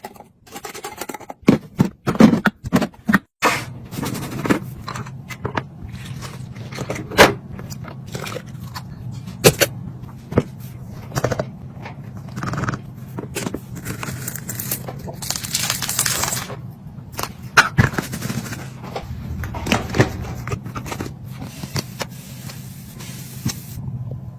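Items being unpacked and placed in a fridge: packaging and containers knocking, clicking and rustling, with a longer crinkling stretch past the middle, over a steady low hum.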